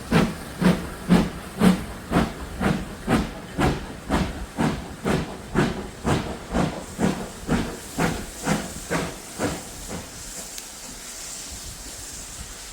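Steam locomotive working under steam, its exhaust chuffing evenly at about two beats a second and fading steadily as it draws away, the beats dying out about ten seconds in to leave a faint hiss.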